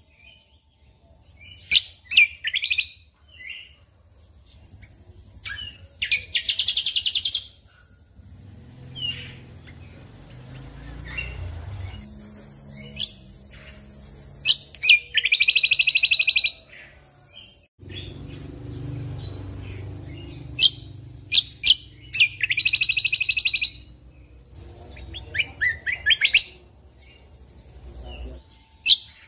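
Cucak kombo (kecial kombo) songbird singing: sharp high chirps followed by rapid trills, each burst lasting a second or two and returning every few seconds. A low rumble runs underneath through most of the middle.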